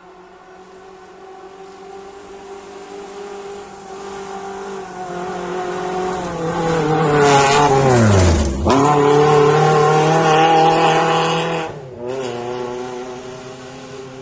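A rally car's engine approaching at full throttle, getting steadily louder, then dropping sharply in pitch as it comes closest, running loud and steady for a few seconds, briefly cutting out about twelve seconds in, and fading as it goes away.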